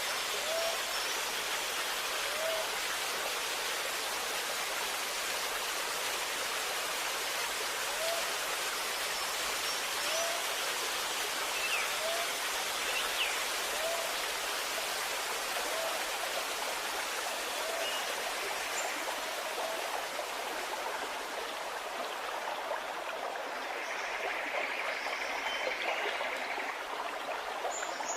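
Stream water running and gurgling, a steady rush. A bird repeats a short, low, rising note every second or two through most of it, with a few higher chirps now and then.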